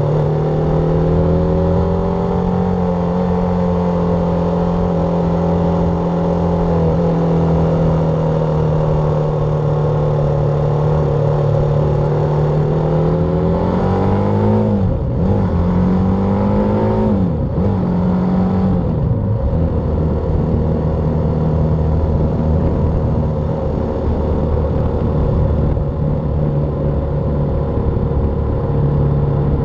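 BMW G310R's single-cylinder engine running at a steady speed; about halfway through its pitch climbs and drops sharply twice, as with gear changes, then it settles to a steady note again.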